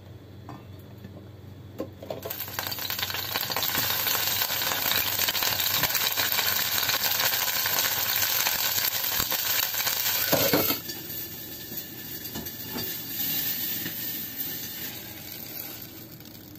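Red chillies and a whole tomato frying in hot oil in a small stainless saucepan: a steady sizzle that starts about two seconds in, then drops sharply to a softer sizzle about ten seconds in.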